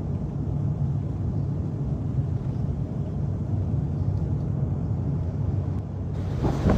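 Steady low vehicle rumble, like traffic or a car driving. About six seconds in it gives way to a louder rushing noise, like wind on the microphone.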